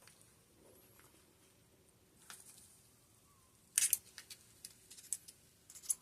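Small clicks and scrapes of hand tools working on rear-shock parts, as an O-ring is picked at inside the shock. A sharper scrape comes a little before four seconds in, then a few light clicks.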